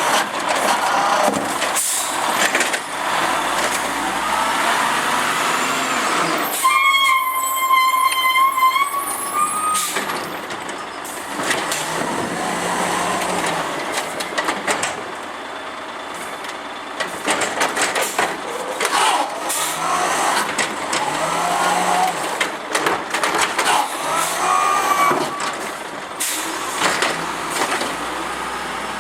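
Automated side-loader garbage truck working its route: engine and hydraulics running, with repeated knocks and clatter and air-brake hisses. About seven seconds in, a steady high tone with overtones holds for about three seconds.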